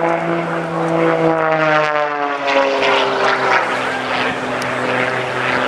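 Oracle Challenger III aerobatic biplane's piston engine and propeller buzzing loudly as it flies past, the pitch dropping from about a second in until about three and a half seconds in, then holding lower as it moves away.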